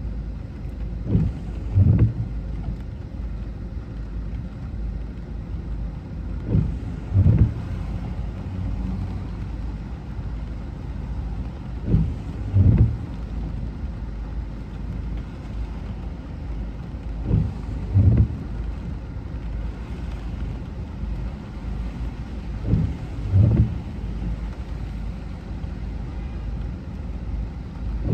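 Steady car road and engine rumble heard from inside the car. Over it, a pair of short low thumps recurs about every five and a half seconds, typical of windscreen wipers on intermittent sweeping out and back in the rain.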